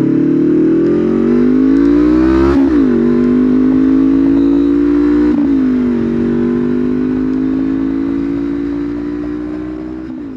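Honda CBR500R parallel-twin engine through an aftermarket exhaust, accelerating up through the gears: the note climbs, drops at an upshift about two and a half seconds in, climbs again and shifts again just past five seconds, then holds nearly steady and fades slightly near the end.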